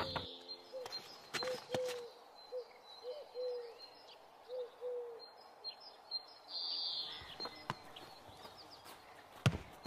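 Birds calling: a run of short, low arched notes over the first half, with higher chirps. A few sharp knocks stand out, the loudest near the end.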